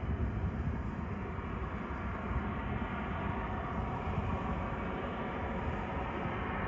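Steady rumble of a Boeing 737-800's CFM56 jet engines running at low power, with no sharp changes.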